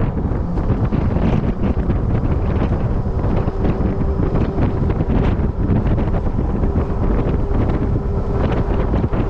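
Wind buffeting the microphone, a steady low rumble, while riding in a moving electric golf cart, with a faint steady hum in places.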